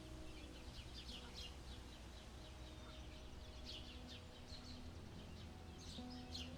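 Faint outdoor ambience of birds chirping: many short, quick calls in rapid succession, over a low steady rumble. Soft held low tones shift in pitch underneath.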